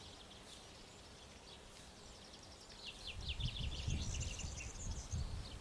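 Outdoor ambience with birds chirping in quick runs of short high notes starting about three seconds in, over a low rumble.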